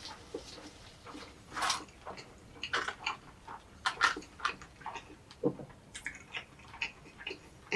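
Close-miked chewing and biting of egg drop toast: irregular short mouth clicks and smacks, several a second.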